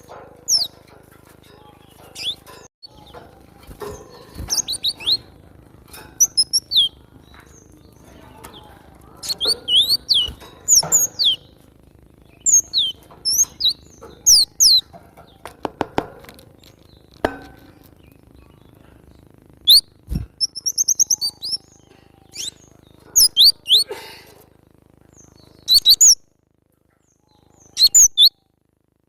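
Cinereous tit (glatik batu) calling in short, irregular bursts of high, quick, downward-sliding chirps, with a buzzy rattling call about twenty seconds in.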